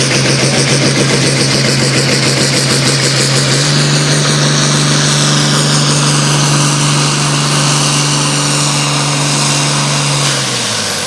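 Pulling vehicle's engine under full throttle, held at a steady high pitch that steps up slightly about four seconds in. Near the end the pitch drops as the throttle comes off, and a high whistle falls away.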